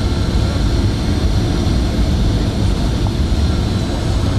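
Steady low rumble of jet airliner cabin noise: engines and rushing air heard from inside the passenger cabin, with no sudden changes.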